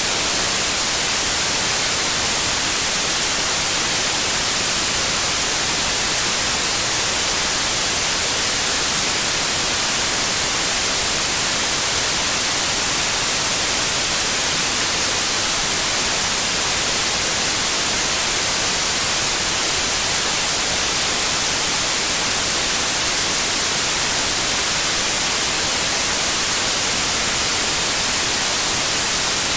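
Steady white noise: an even, unchanging hiss, strongest in the treble, played as a sleep aid to calm babies.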